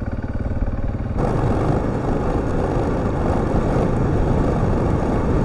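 Husqvarna TR650 single-cylinder motorcycle engine running under way, its beat clear at first. About a second in, a rush of wind and tyre noise swells up and largely covers the engine.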